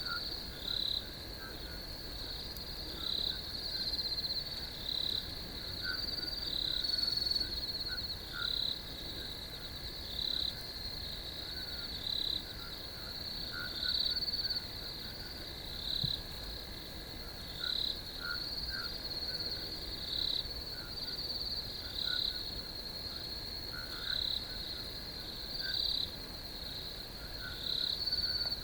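A chorus of crickets trilling steadily and high, with louder chirps standing out every second or two. Scattered lower-pitched chirps sound beneath it.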